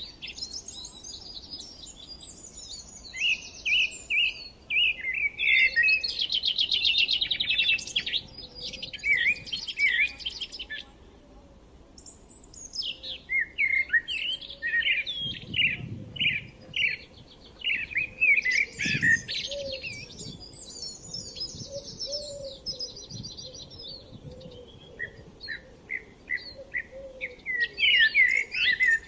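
Several forest songbirds singing and chirping at once, quick high trills and whistled notes overlapping, with a brief lull about eleven seconds in.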